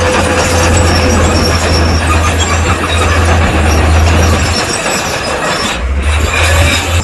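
Crawler bulldozer at work: a deep diesel engine drone under loud, steady metallic grinding from its steel tracks, which breaks off briefly near the end.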